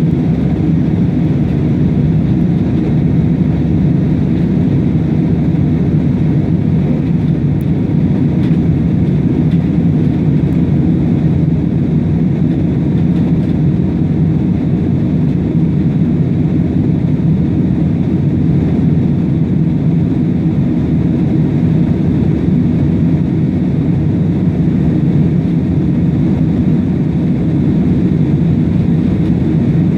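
Airplane engines giving a steady, unchanging low rumble.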